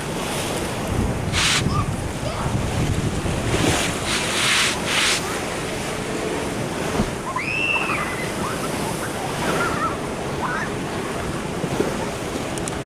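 Ocean surf washing in, with a few louder surges of breaking water, and wind buffeting the microphone.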